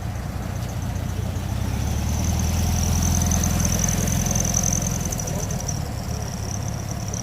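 A car engine running at low revs, growing louder to a peak about halfway through and then easing off, as a vehicle moves slowly past.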